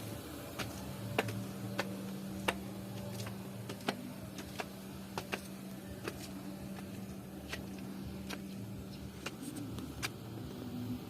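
A steady low hum with sharp clicks and taps scattered irregularly over it, roughly one or two a second.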